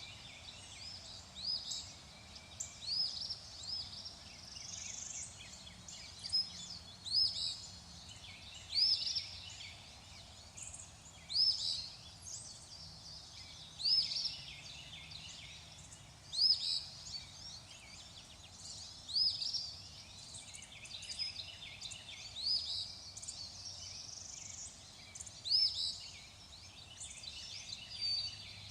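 Birds calling over and over, short high chirped phrases in clusters every two or three seconds, over a faint steady hiss.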